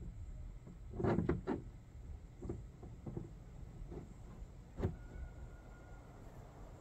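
Hard plastic parts of a resin deck box knocking and clattering as they are handled and fitted together during assembly: a quick run of three knocks about a second in, a few lighter taps, then one sharp knock near the end.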